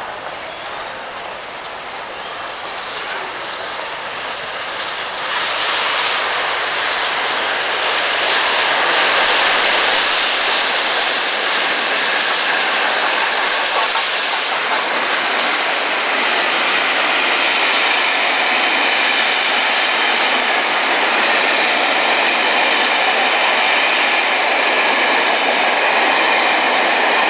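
Peppercorn A1 Pacific steam locomotive Tornado and its train passing through a station at speed. The rush of noise swells over the first few seconds, then stays loud and steady as the train runs by.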